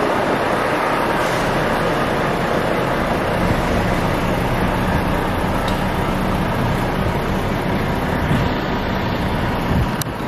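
Vehicle engine running steadily under a loud, even rush of noise, with a low steady hum throughout.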